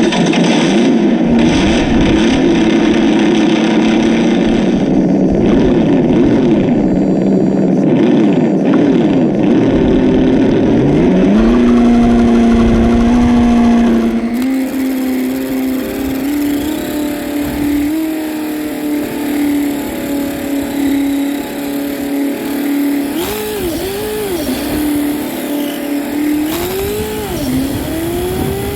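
A race-car engine sound revving up and down, then rising to a steadier higher pitch a little under halfway through. It becomes quieter soon after and swings up and down again near the end.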